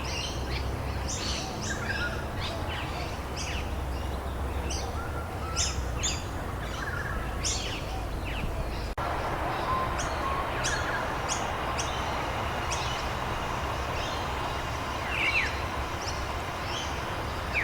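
Many songbirds chirping and trilling in quick short notes over a steady hiss of rain. The sound cuts out for an instant about halfway through.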